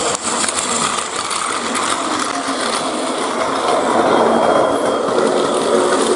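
Plarail battery-powered toy trains running on plastic track: a steady whirring gear-motor buzz with clattering wheels.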